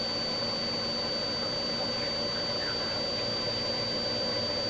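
Steady drone and hiss of a police helicopter's turbine engine and rotors, heard inside the cabin through the intercom, with a constant hum and a thin high whine.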